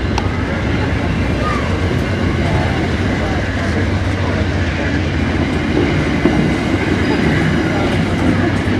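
A train rolling past, its railcars making a continuous rumble that grows a little louder toward the end.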